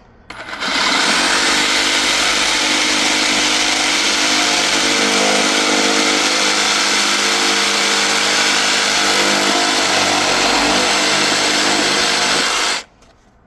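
Power saw cutting through PVC water pipe: a loud, steady buzz that starts about half a second in and stops abruptly near the end.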